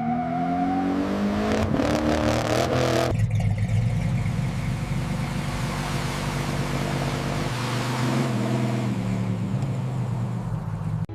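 Car engine revving, its pitch rising over about three seconds, then after an abrupt change about three seconds in, running steadily at a lower pitch.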